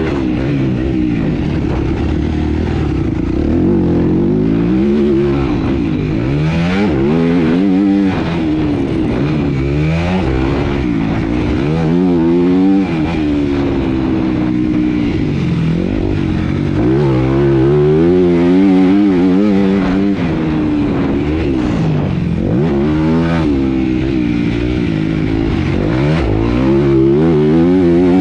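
Motocross bike engine revving hard and repeatedly, rising and falling in pitch as the rider accelerates, shifts and backs off around the track.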